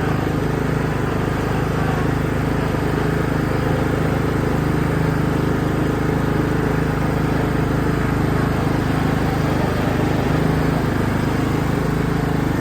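Riding lawn mower engine running at a steady speed as the mower is driven, with no change in pitch.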